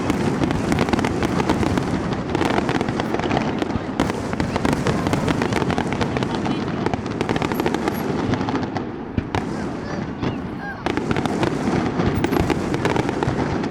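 Fireworks display going off continuously, a dense rapid crackle of many small pops and bangs. It thins briefly about two-thirds of the way through, then goes dense again.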